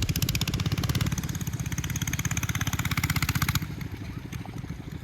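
Mini bike's single-cylinder 212cc Predator engine running with a rapid, even firing beat. It is louder for the first three and a half seconds, then drops to a lower, quieter beat.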